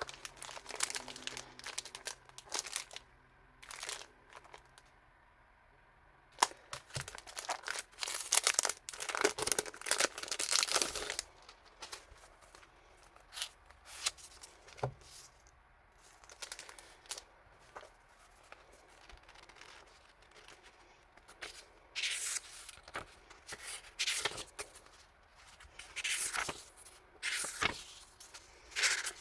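Packaging being handled and torn open: irregular rustling, crinkling and tearing in bursts, busiest a third of the way in and again in the last quarter.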